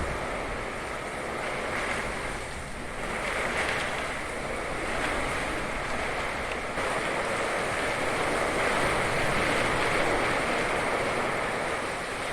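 Storm with heavy rain and wind: a steady rushing noise that swells somewhat, with wind buffeting the microphone.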